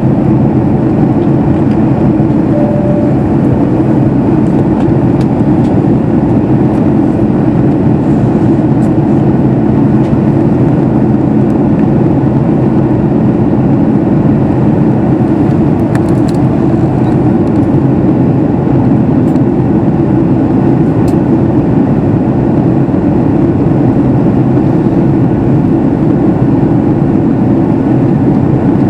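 Steady cabin noise inside a Boeing 737 MAX 8 in flight: the hum of its CFM LEAP-1B turbofans mixed with airflow over the fuselage, even and unchanging throughout.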